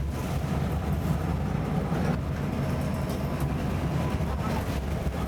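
A torrent of floodwater rushing: a steady, low, rumbling noise that never lets up.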